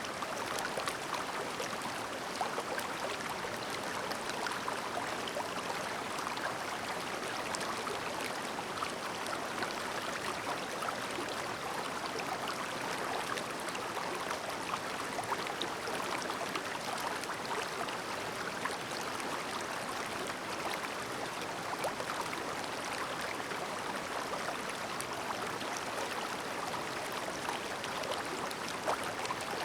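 A clear mountain stream murmuring steadily, with many small gurgles and splashes over an even rush of water.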